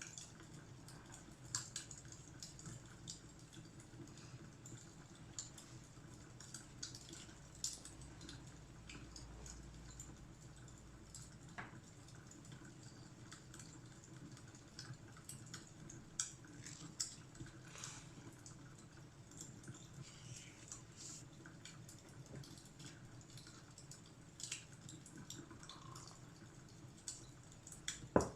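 Fireplace crackling faintly: a steady low rumble of the fire with irregular sharp pops and snaps, and a louder pop near the end.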